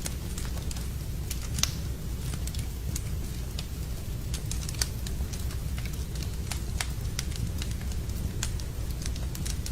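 Wood fire burning in a fireplace, crackling with irregular sharp pops, two of them louder about a second and a half and nearly five seconds in, over a low steady rumble.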